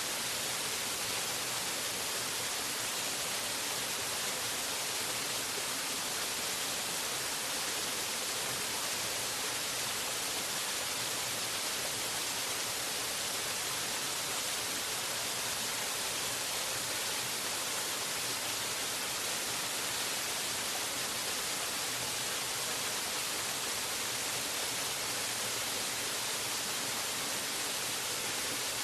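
Waterfall: falling water making a steady, even hiss, strongest in the high frequencies, with no changes.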